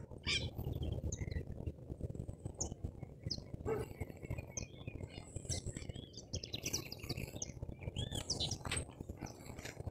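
Several small birds chirping in many short, high calls throughout, over a steady low rumble.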